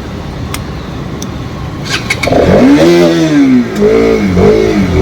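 Motorcycle engine idling, then revved hard about halfway in, its pitch climbing and falling back in two or three throttle blips.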